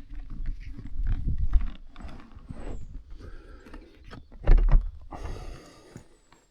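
Rustling, scuffing and bumping close to a helmet-mounted camera microphone, with low rumbling throughout and one heavy thump about four and a half seconds in.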